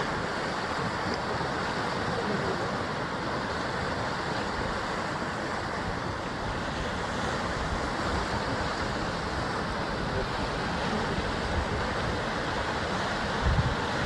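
Sea surf washing steadily against a rocky basalt shore, an even rushing wash of breaking waves. Near the end, low rumbling gusts of wind hit the microphone.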